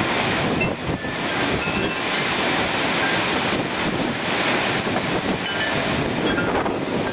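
Strong storm wind rushing in gusts that swell and ease, buffeting the microphone.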